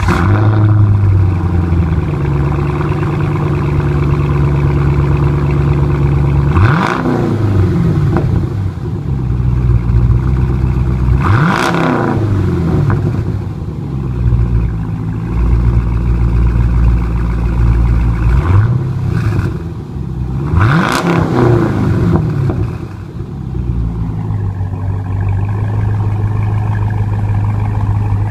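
Chevrolet Camaro SS V8 idling just after being started, blipped about four times. Each blip sends the revs up sharply before they drop back to a steady, deep idle.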